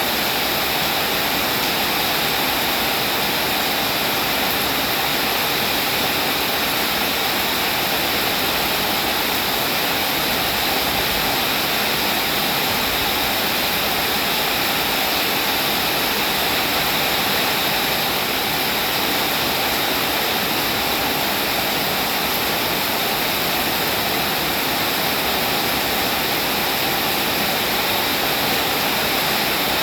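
Steady rain falling, an even hiss of water with no distinct drops or thunder standing out.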